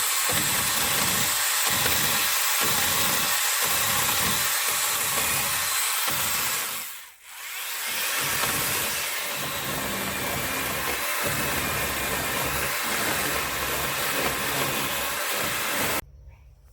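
Angle grinder running as it grinds wood out of a saddle notch in a log, with a pulsing about once a second. It briefly spins down about seven seconds in and comes back up to speed, then cuts off suddenly near the end.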